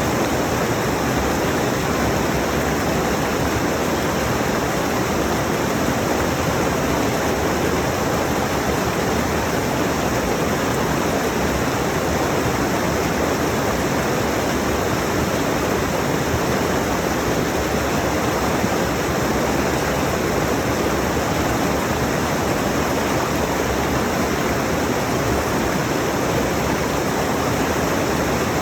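Mountain stream rushing over rocks, a loud, steady wash of water with no breaks.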